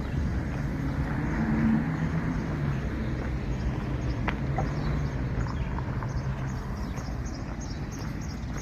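Outdoor ambience: a steady low motor hum, with small birds chirping in quick high runs through the second half.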